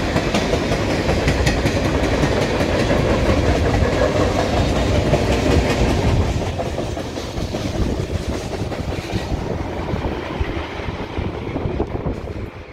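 Freight train of tank cars rolling past: a steady rumble of steel wheels on rail with a clickety-clack of wheels over the rail joints. It grows quieter after about six seconds.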